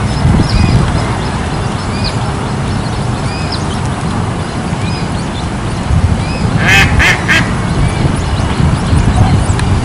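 American coot chicks peeping over and over in short, thin, high calls. About seven seconds in come three loud, nasal, quacking coot calls in quick succession. A low rumble runs underneath.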